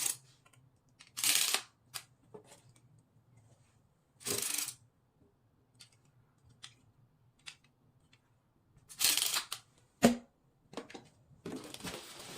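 Handling of a stick vacuum's adjustable metal tube and its packaging: several short rustling swishes and a few light ticks, a sharp click about ten seconds in, then continuous rustling near the end.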